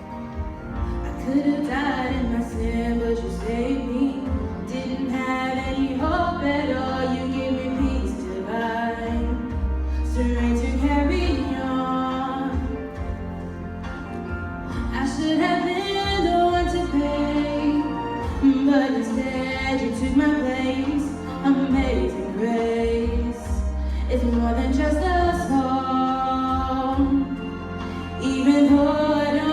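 A woman singing a slow worship song over instrumental accompaniment with a steady bass line.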